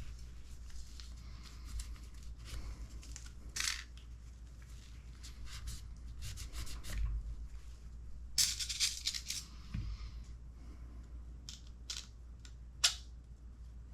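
Small parts and a screwdriver clicking and scraping while screws are driven into an RC10T transmission case. Scattered light clicks, a busier run of scrapes about eight to nine seconds in, and one sharp click near the end.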